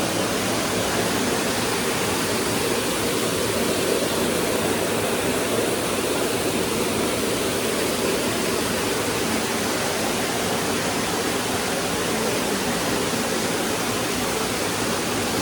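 Steady rush of churning water from a spa jacuzzi and its hydrotherapy jets, an even hiss without pauses.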